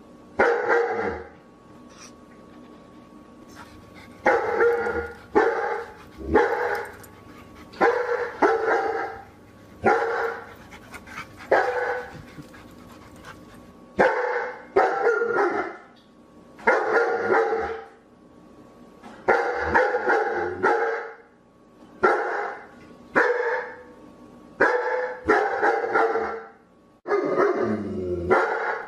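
A dog barking over and over, single barks and quick doubles about every second, with a pause of a couple of seconds near the start.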